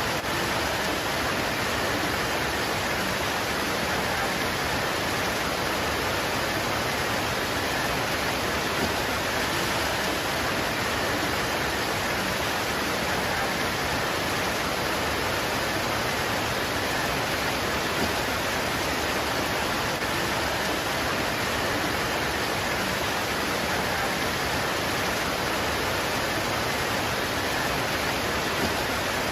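Rain pouring steadily on leaves: a constant, even hiss with no change in strength.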